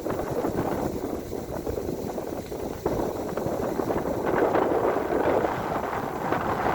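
Wind buffeting the microphone: an uneven, gusty rush of noise with most of its weight low down, growing louder from about four seconds in.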